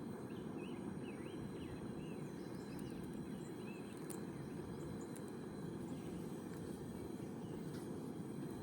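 Steady low rushing outdoor ambience, with a few brief bird chirps in the first three seconds and a single faint tick about four seconds in.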